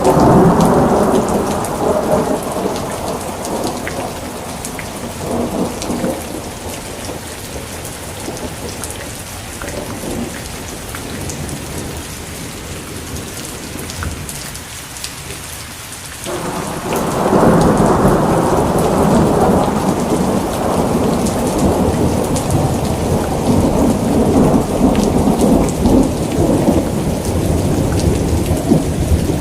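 Steady rain with rolling thunder. A rumble at the start dies away over several seconds, then a louder rumble breaks in suddenly about halfway through and keeps rolling.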